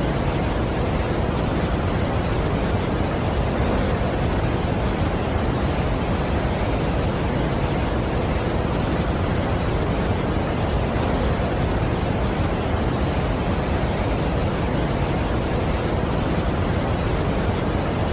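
Continuous, unchanging rush of falling water from a large waterfall, an even noise heaviest in the low end, with no separate events.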